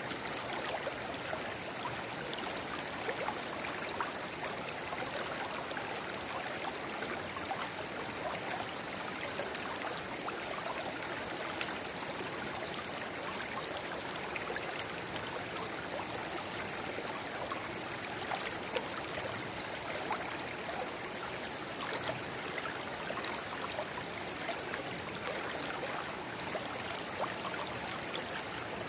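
Steady babbling of a shallow river, where a narrow spring-fed rivulet pours into the main stream, with many small splashes and gurgles and no break in the flow.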